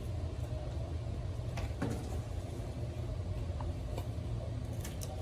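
A steady low rumble with a few light knocks scattered through it.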